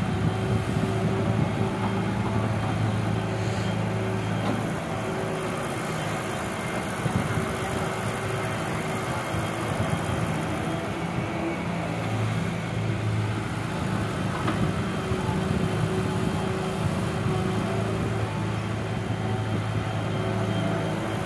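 Doosan excavator's diesel engine running with a steady low note. The note weakens for several seconds near the middle, then comes back strong.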